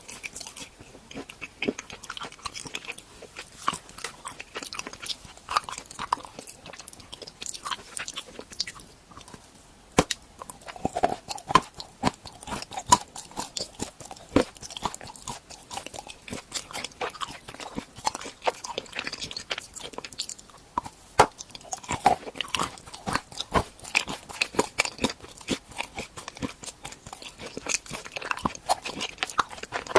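Close-miked biting, crunching and chewing of edible candy shaped like renovation tools, with many irregular sharp cracks and crackles as pieces snap and are chewed.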